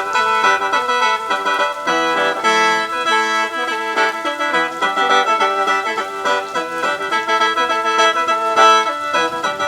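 Khaen, the Isan/Lao bamboo free-reed mouth organ, playing a melody over steadily held notes.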